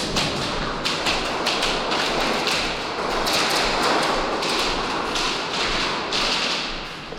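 Airsoft guns firing in an exchange of fire: many sharp, irregular shots, some in quick runs.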